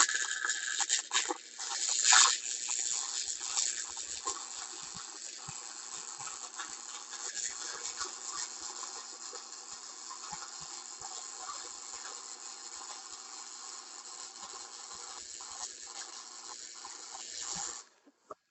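Flux-core wire-feed welding arc from a Harbor Freight welder running 0.030 flux-core wire at maximum settings, crackling and hissing in one continuous bead that stops near the end.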